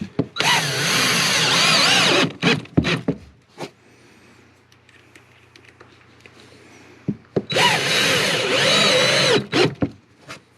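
Screw gun driving two screws, two runs of about two seconds each, the motor's pitch wavering as it loads up, each followed by a few short knocks.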